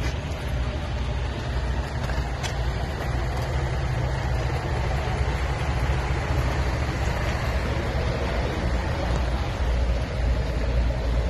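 Steady low rumble of idling diesel truck engines, with one light click about two and a half seconds in.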